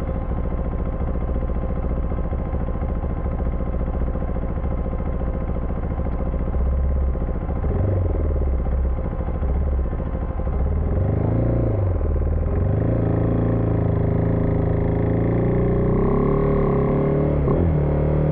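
Husqvarna Vitpilen 401's single-cylinder engine running while riding, over a steady rushing noise. About seven seconds in its pitch rises and falls a few times as the bike accelerates and shifts, then holds steady at a higher pitch.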